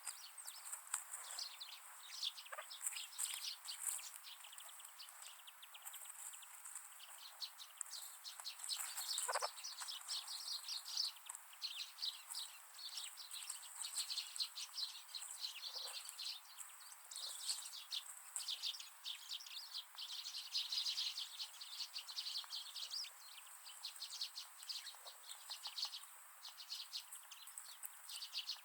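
Wild birds chirping and twittering continuously, with many short, high calls overlapping throughout.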